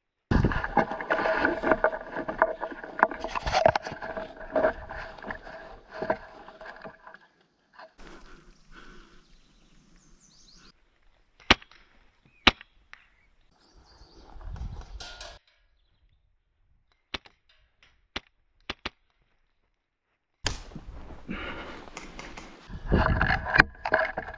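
Airsoft guns firing: dense stretches of rapid shots with a steady whine at the start and again near the end, and scattered single sharp cracks in a quieter middle part.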